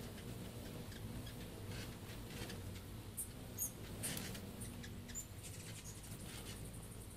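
Hummingbirds giving a few short, very high, thin squeaky chips, clustered about halfway through and again a little later, over a faint steady low hum.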